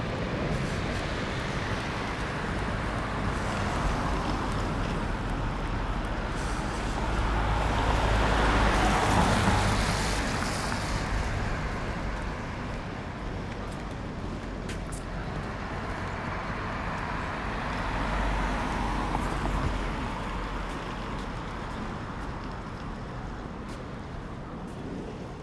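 Road traffic going by, with two vehicles passing loudest, about a third of the way in and again around three quarters of the way in.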